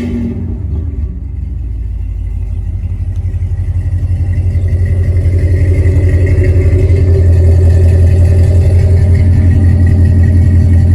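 2019 Chevrolet Camaro ZL1's supercharged 6.2 L V8, fitted with high-flow catalytic converters and aftermarket mufflers, idling with a deep pulsing rumble right after being started. The rumble grows louder over the first several seconds, then holds steady.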